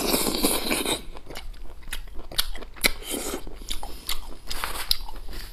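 A person biting and chewing boiled beef rib meat off the bone. There is a dense, wet bite and chew in the first second, then steady chewing with many small mouth clicks and smacks.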